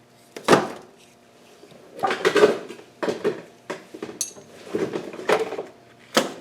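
Metal hand tools and sockets clinking and rattling against each other in several short bursts.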